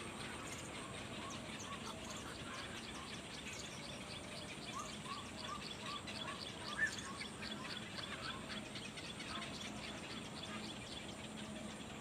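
Small birds chirping: a quick run of short, repeated chirps with rapid high twitters over a steady background hiss, and one louder chirp about seven seconds in.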